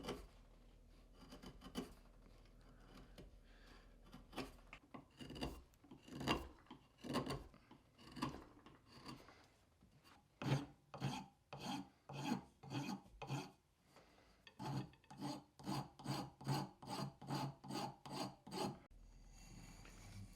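Hand rasp strokes on the canary wood body of a wooden hand plane, shaping it. Scattered strokes at first, then from about ten seconds in a regular rhythm of roughly two strokes a second, with a short pause partway through, stopping just before the end.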